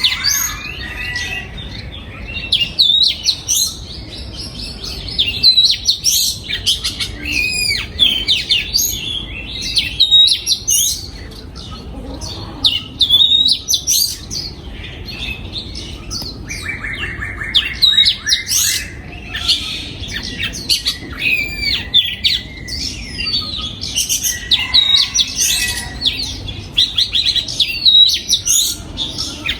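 Oriental magpie-robin singing: a long, varied run of clear whistles, slurred glides and chirps, with a rapid rasping rattle about seventeen seconds in.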